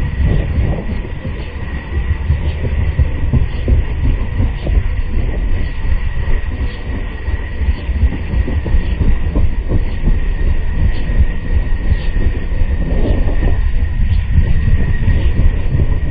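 Helicopter running close by: a steady high whine over a heavy, uneven low rumble from the rotors.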